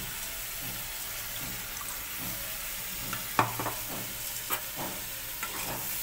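Mustard-paste masala sizzling in a steel kadai, a little water just added. A spatula scrapes and knocks against the pan a few times, loudest about three and a half seconds in.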